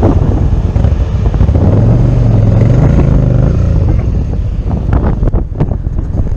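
Motorcycle engine accelerating, its note climbing for about two seconds before easing off, with heavy wind noise on the microphone.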